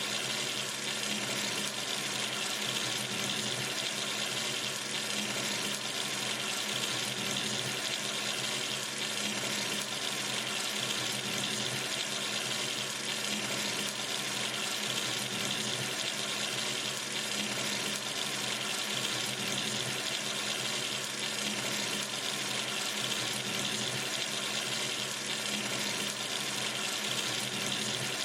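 Water running steadily from a sink tap into the basin, an even, unbroken rush.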